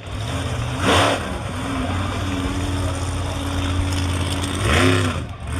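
Monster truck engine running loud and revving, with a surge about a second in and another rising rev near the end.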